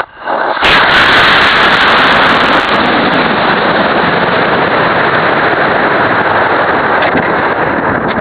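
Aerotech F20-4W model rocket motor igniting about half a second in, followed by a loud, steady rushing roar of motor thrust and air streaming past the rocket-mounted camera during the climb.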